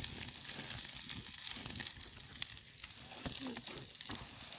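Campfire crackling and hissing, a steady high hiss dotted with many small sharp crackles.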